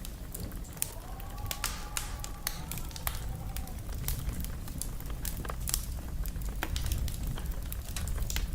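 Wood fire crackling: irregular sharp pops and snaps over a low steady rumble, with a faint wavering whistle between about one and four seconds in.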